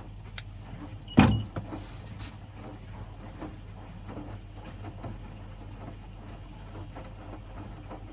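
Washing machine running its wash while the water heats towards 60 °C: a steady motor hum with faint repeated knocks of the tumbling drum, and one sharp thump about a second in.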